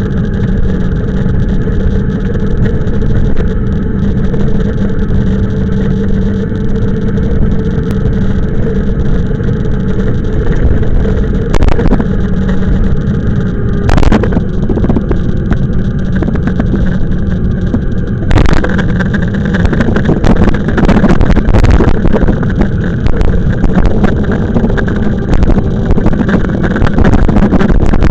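Riding noise from an e-bike on the move: wind buffeting the microphone over a steady motor and tyre hum, with a few brief louder jolts or gusts through the middle.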